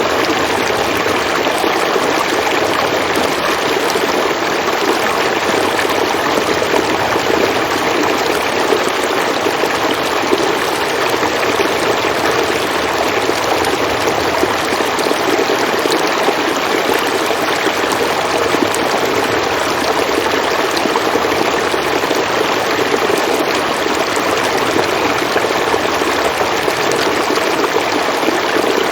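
River water flowing steadily over stones.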